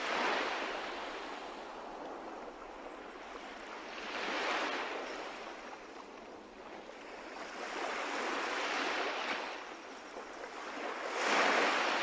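Sea waves washing in, rising and falling in four swells about four seconds apart.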